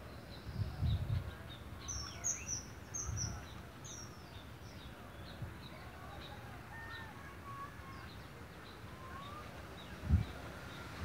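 Wild birds chirping, with many short high chirps scattered throughout, a cluster of the loudest ones about two to four seconds in, over faint outdoor background noise. A few low thumps break in, one near the end.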